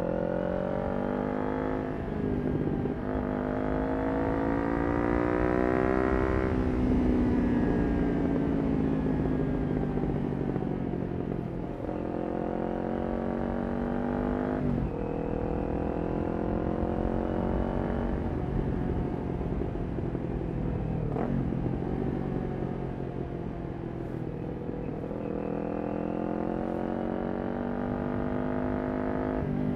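Kawasaki Ninja 400's parallel-twin engine through a Yoshimura exhaust, pulling up through the gears with its pitch rising and breaking at each shift. Twice it eases off with the pitch falling before pulling again.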